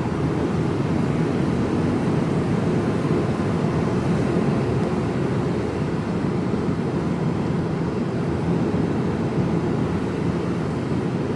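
Steady drone inside a Mercedes-Benz Actros lorry cab on the move: diesel engine and road noise, heaviest in the low range and even throughout.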